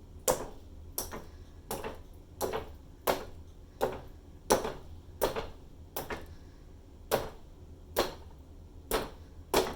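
Mallet blows of the acrylic-pour 'mallet smash' technique, knocking the surface under a wet paint pour on hardboard. About thirteen sharp knocks, roughly one every 0.7 seconds, at an even pace.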